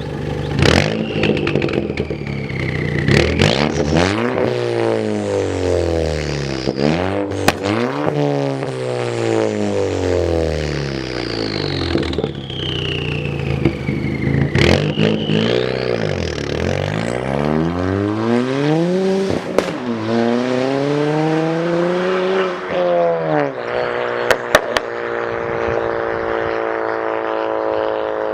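Ford Fiesta ST MK7's turbocharged 1.6 EcoBoost four-cylinder revving up and down repeatedly through its exhaust, with several sharp cracks and a high falling whistle after some of the revs. About 24 seconds in it settles to a steady idle.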